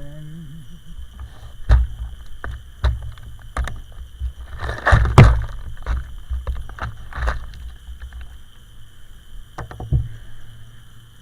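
A string of irregular knocks and thumps from gear being handled close to the microphone, over a low rumble. The loudest knocks come in a cluster about five seconds in, with another just before the end.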